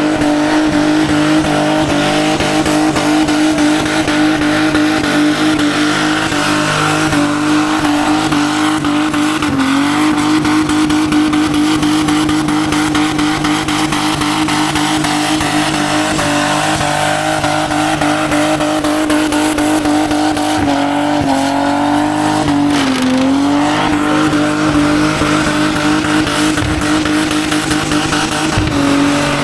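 Car engine held at high revs during a burnout, its pitch steady apart from a few brief dips, over the hiss of spinning, squealing tyres.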